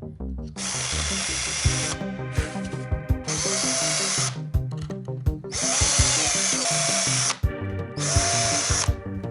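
Power drill running in four short bursts of one to two seconds each, over background music with a steady beat.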